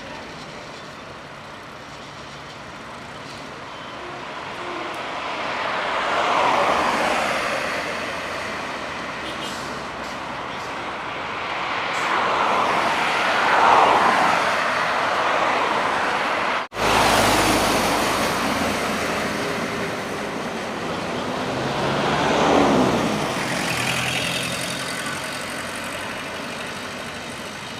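Highway traffic passing at speed: three vehicles go by one after another, each swelling up and fading away with a falling pitch. The sound breaks off for an instant about two-thirds of the way through.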